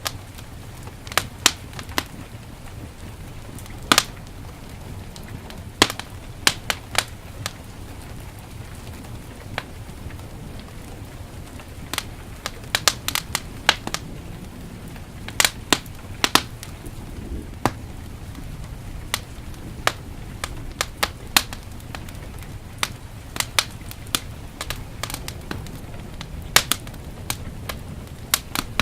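Wood fire in a fireplace crackling, with irregular sharp pops and snaps, sometimes several in quick succession, over a steady low rumble.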